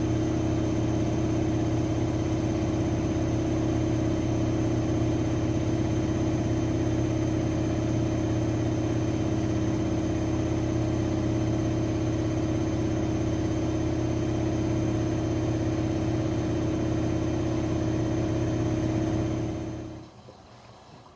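AEG Lavamat 6610 washing machine running with a steady motor hum. About twenty seconds in it stops abruptly and falls away to silence.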